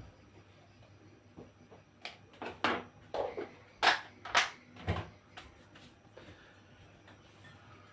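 Kitchen clatter: about five sharp knocks and clinks of utensils against cookware, bunched between about two and five seconds in.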